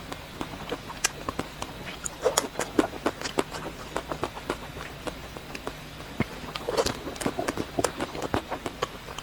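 Close-miked eating of chocolate ice cream: a steady stream of irregular, crisp mouth clicks and crunches, busiest about two to three seconds in and again about seven seconds in.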